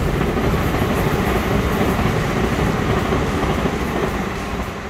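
Passenger train running through on the tracks below, a steady rumble and rattle of wheels on rails that begins to fade near the end.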